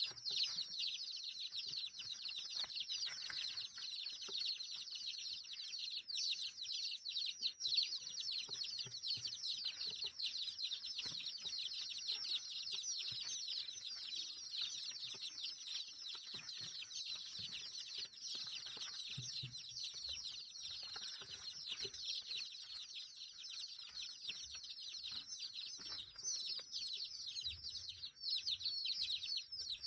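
A crowd of small birds chirping at once, a dense, unbroken chatter of short high calls.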